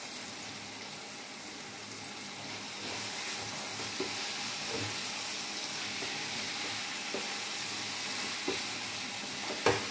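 Paneer, capsicum and onion in masala sizzling in a kadai on the gas flame while a wooden spatula stirs it, with a few light knocks and scrapes against the pan. The sizzle gets a little louder about three seconds in.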